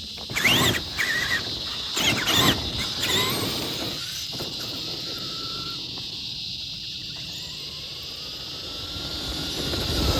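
Traxxas Summit RC truck's stock brushed electric motor and drivetrain whining in about three short throttle bursts in the first few seconds, then running more quietly. A steady high-pitched buzz runs underneath throughout.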